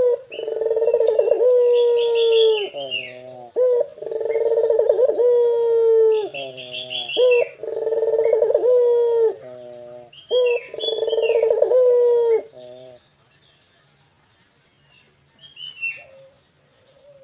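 Local puter (collared dove) cooing with a big, resonant voice: four long, trembling coos about every three and a half seconds, each ending in a few quick falling notes, stopping about twelve seconds in. Small birds chirp high between the coos and again near the end.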